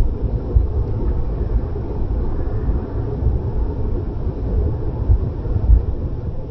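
A WDM3A diesel-electric locomotive and its express train running, heard as a steady low rumble with no sharp knocks or horn.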